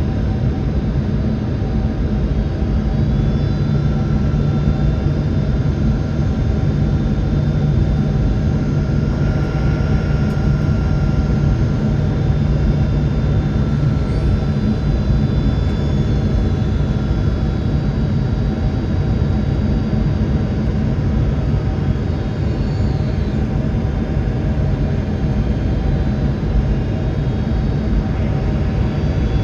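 Steady jet-airliner cabin noise inside a Boeing 767-400 near a window seat: engine drone and rushing air with a low hum, and faint high whines that drift slightly in pitch.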